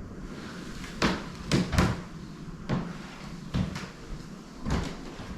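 A series of about seven short knocks and thuds at irregular intervals, over a low background hum.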